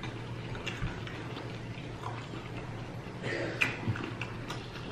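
Soft eating sounds of people chewing loaded nachos: small wet mouth clicks and smacks, with a brief hum of voice about three and a half seconds in.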